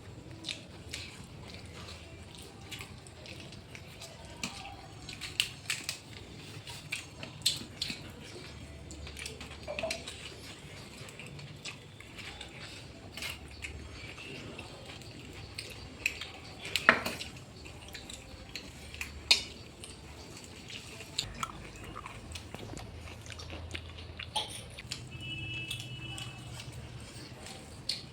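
Eating sounds of chicken curry and rice eaten by hand: chewing and scattered small clicks and knocks against a plate, with one sharper clink about two-thirds of the way through.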